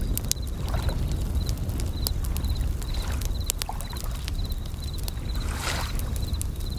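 Layered nature ambience: a campfire crackling with sharp pops, waves washing with a low rumble and one swell near the end, and bell crickets (suzumushi) repeating short high trilled chirps.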